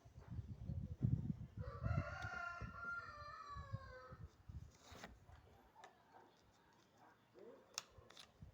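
A rooster crowing: one long call lasting about two and a half seconds that falls slightly in pitch at the end, with a shorter call near the end. Low knocks and handling thumps are heard underneath during the first few seconds.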